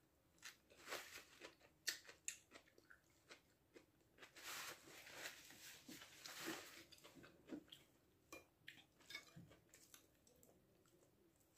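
Faint chewing: a person biting and crunching a mouthful of crisp green pea pods, with scattered small crunches and mouth clicks.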